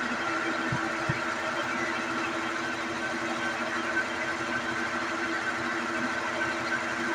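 Brastemp BWG11 washing machine running, a steady motor hum with several held tones and two brief low knocks about a second in.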